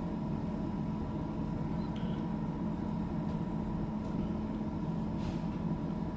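Kings 75 L dual-zone 12-volt compressor fridge running with a steady hum while it cools.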